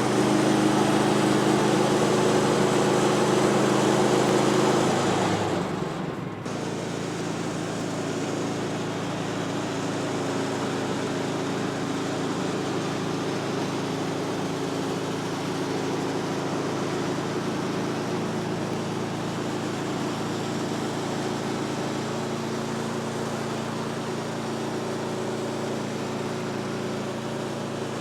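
Small gasoline engine of a portable bandsaw mill running steadily. About five seconds in it becomes quieter and carries on at a lower, steady level.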